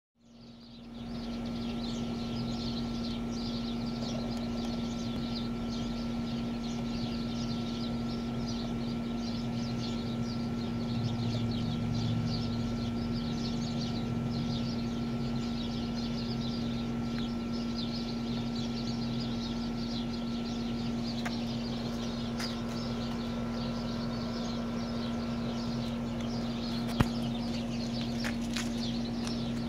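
Birds chirping continuously over a steady low hum, with a single sharp click near the end.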